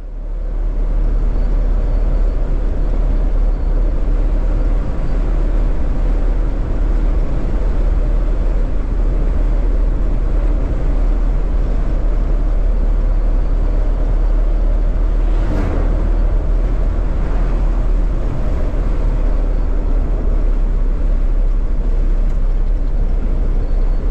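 A vehicle driving along: a steady, loud, low rumble of engine and road noise.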